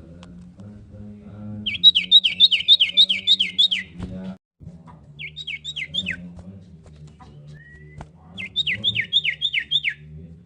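Common iora (cipoh) calling in three bouts of rapid, repeated down-slurred whistled notes, about five a second. The longest bout comes about two seconds in, a short one around five seconds, and another near nine seconds. A low steady drone runs underneath.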